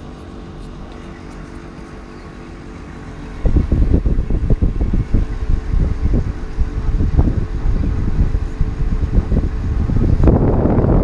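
TCL ductless split air conditioner running with a steady, many-toned hum. About three and a half seconds in, a much louder, uneven low rumble suddenly takes over and buries the hum.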